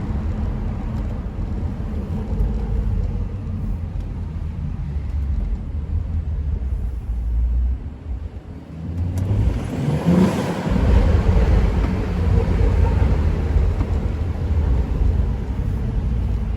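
BMW 335i with an aftermarket downpipe, its engine rumbling low, dropping off briefly about eight seconds in, then revving up with a rising pitch and running louder for the rest, as in a launch attempt.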